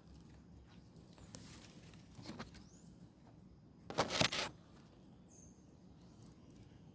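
Quiet outdoor background with scattered faint rustles and a short cluster of sharp clicks about four seconds in, followed by a faint high chirp.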